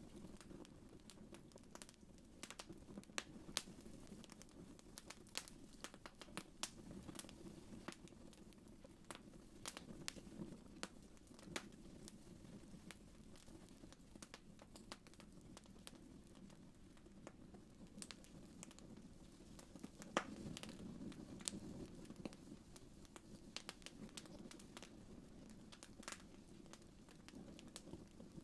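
Wood fire crackling in a fireplace: irregular pops and snaps over a soft low rumble of flames, with one louder pop about two-thirds of the way through.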